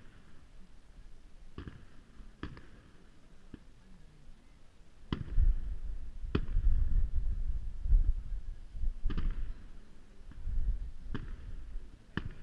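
Distant aerial firework shells bursting: a series of sharp bangs, about one every second or two. A heavy low rumble swells under the bangs from about five seconds in until about eleven.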